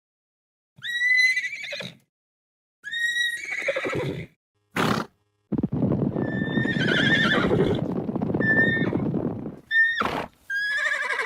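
Horse whinnying several times in a row, a long rougher whinny in the middle, with two short sharp bursts between the calls.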